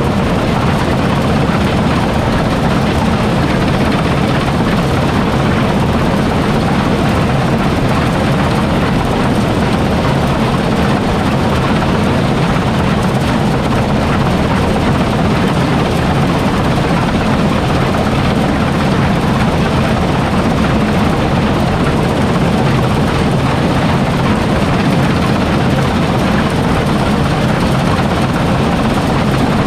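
Large harvest machine's engine running at a steady, loud, constant drone with no change in speed.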